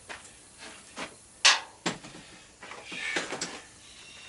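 Scattered short knocks, clicks and scrapes of hand tools and parts being handled while a washing machine is taken apart; the sharpest is a brief scrape or clatter about a second and a half in, with a small cluster of rattles around three seconds.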